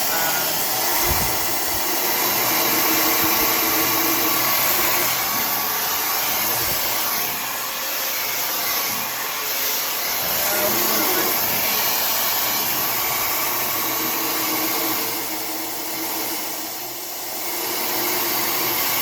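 Tymo Air Hype hair dryer running and blowing steadily, its airflow noise dipping briefly near the end.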